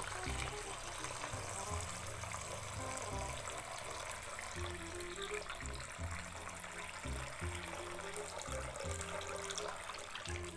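Running water, like a tap filling a sink, with background music underneath: a simple repeating tune of short low notes.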